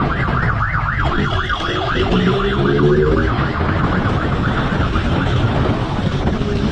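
Police siren in a fast yelp, its pitch rising and falling several times a second and fading toward the end, over engine and road rumble.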